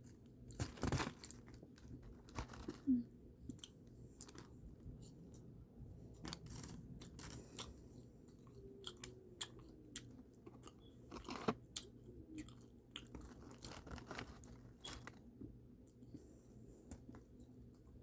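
Close-miked chewing of crispy fried food, with irregular crunches as it is bitten and chewed.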